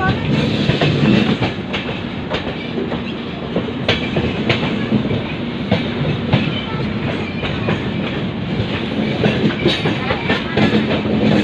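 Passenger express train running along the track: a steady rumble with irregular clacks of the wheels over the rails.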